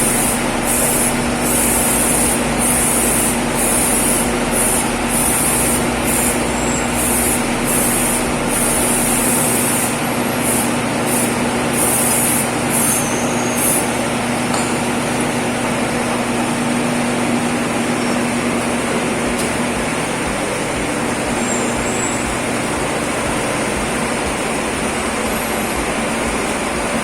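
Steady machine noise with a constant hum that stops about twenty seconds in, and on-and-off bursts of high hiss over the first half.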